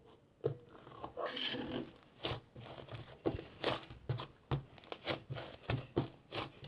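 Clay slime being squished and pressed by hand: a run of sticky clicks and small pops, about two or three a second, with a longer squishing stretch a little after a second in.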